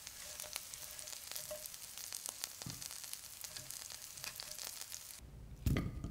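Floured chicken bites frying in oil in a cast iron skillet: a steady sizzle with many crackling pops. The sizzle stops suddenly about five seconds in, and a single low thump, the loudest sound, follows about half a second later.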